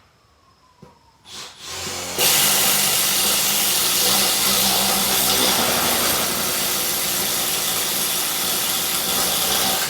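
Milwaukee M12 Fuel impact driver boring a 3/4-inch spade bit through wood: a brief spin-up about a second in, then the driver hammering at full speed under load for about seven and a half seconds, stopping right at the end.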